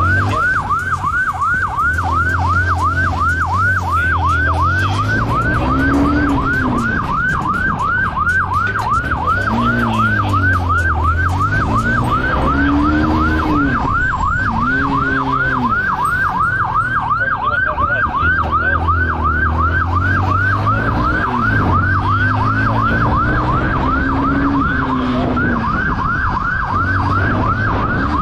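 Police siren in a fast yelp, about three rising-and-falling sweeps a second, over an engine whose revs rise and fall every few seconds during a motorcycle pursuit.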